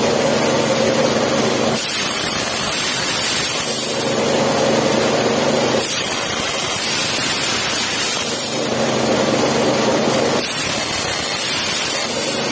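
CNC plasma cutter running on steel plate: a loud, steady hiss, with a buzzing tone that comes in for a second or two and drops out again roughly every four seconds.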